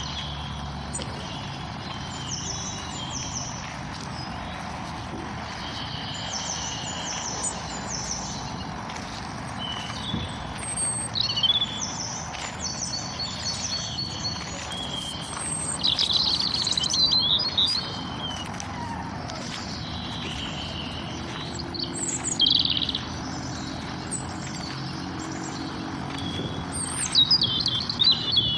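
Several songbirds chirping and singing over a steady low background hum, with louder bursts of song now and then.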